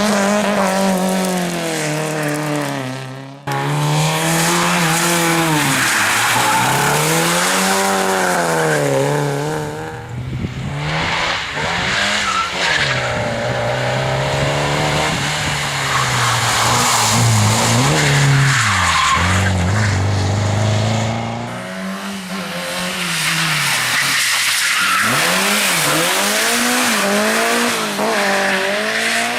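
Competition car engines revving hard, the pitch climbing and dropping over and over with gear changes and throttle lifts, with tyres skidding as the cars are slid through corners. The sound breaks off suddenly a few times and starts again.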